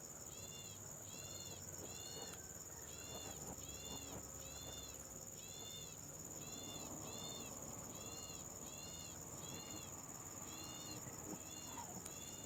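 A bird repeats a short, high call with a rise and fall, about one to two times a second and sometimes in pairs, over a steady high-pitched insect drone.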